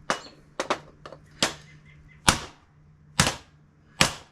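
Hammer striking frozen bushings into the pin holes of a car door hinge: about seven sharp strikes at an uneven pace.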